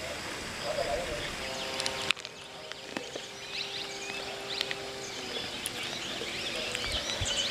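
Outdoor ambience with small birds chirping, the chirps thickening near the end; the background noise drops suddenly about two seconds in.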